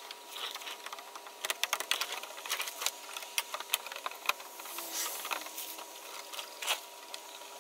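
Irregular sharp clicks and light plastic rattling, typical of zip ties being pulled tight on a car's plastic engine undercover.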